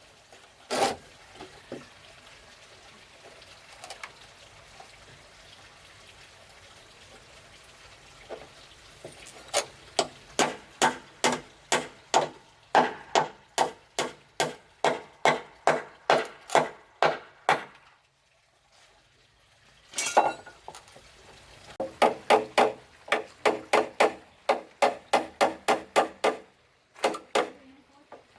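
Repeated blows of a tool striking wood, in quick steady runs of about two to three strikes a second. A few single knocks come first, then a long run of strikes from about the middle, a short pause, and a second run near the end.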